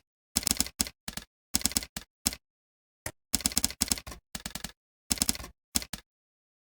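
Computer keyboard typing in short bursts of rapid keystrokes with brief pauses between, stopping about six seconds in.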